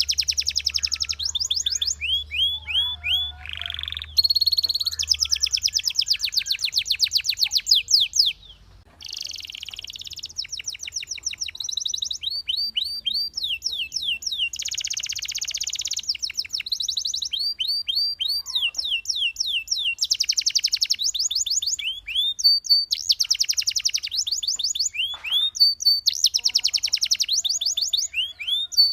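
Canary singing a long song of fast trills, each made of rapidly repeated down-slurred whistled notes, switching from one trill to the next. There is a brief pause about eight seconds in.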